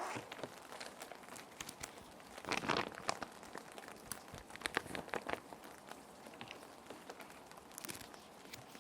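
Plastic sheet protectors crinkling and rustling as paper sheets are slid into them, in irregular bursts with the loudest about a third of the way in, over a steady hiss of rain.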